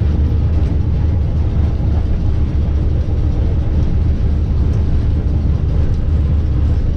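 A 100-year-old electric streetcar under way on its track, heard from aboard: a steady low rumble of the running car.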